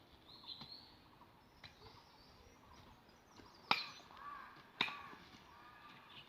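Birds chirping outdoors, with two sharp knocks about a second apart near the middle.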